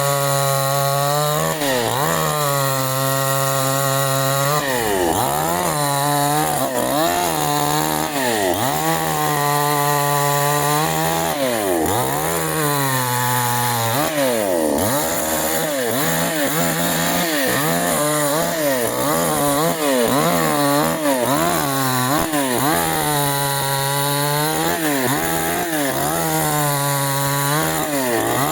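Canfly 5800 two-stroke chainsaw revving again and again: it holds at high speed for a second or two, then drops back and rises again, as when sawing through wood.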